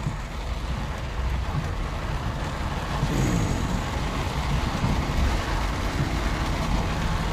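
Steady noise inside a car driving in heavy rain: engine and tyre rumble on a wet road, with the hiss of rain on the car.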